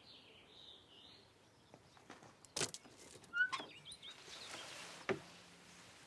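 Faint birdsong, chirping in the first second, then a few sharp clicks about two and a half, three and a half and five seconds in.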